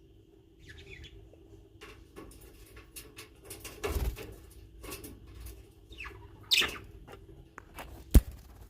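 Birds chirping a few short times among rustling and knocking, with a sharp click near the end, over a steady low hum.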